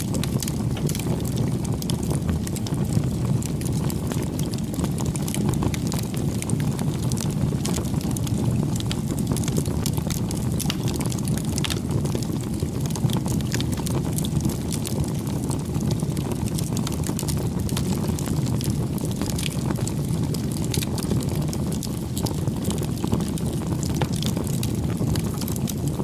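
Wood campfire burning: a steady low rush of flames with frequent small crackles and pops from the burning wood.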